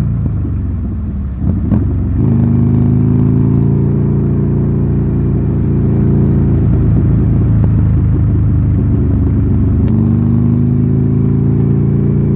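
Buell Lightning XB12S's air-cooled V-twin, with an aftermarket D&D exhaust, running loud under way. The engine note drops briefly about a second and a half in, then holds steady and rises slightly near the end.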